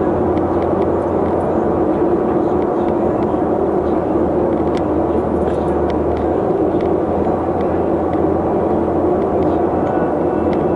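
Steady running noise of a vehicle on the move: engine and road noise as a constant drone, with a few faint ticks.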